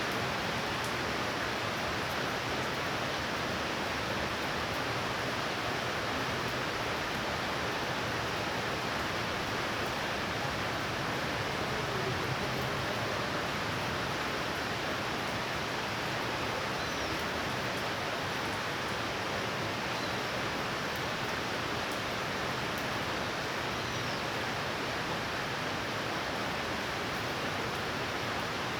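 Heavy rain falling steadily in a thunderstorm, an even hiss with no thunder.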